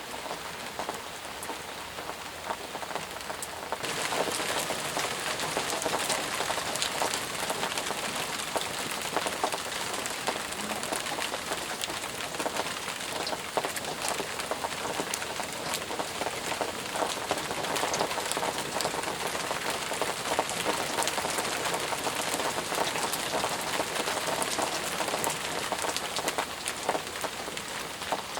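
Intense rain falling steadily: a dense hiss with many distinct drop hits, growing louder about four seconds in.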